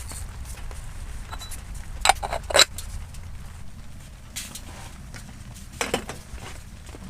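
Metal cookware and utensils being handled: a quick run of sharp metallic clinks a little over two seconds in and another clink near six seconds, over a low, steady background rumble.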